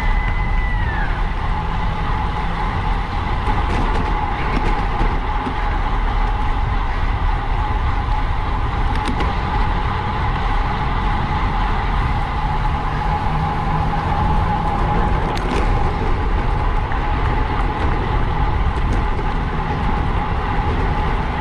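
Steady wind rush over the microphone of a bicycle racer's onboard camera at race speed, with a constant thin whine underneath.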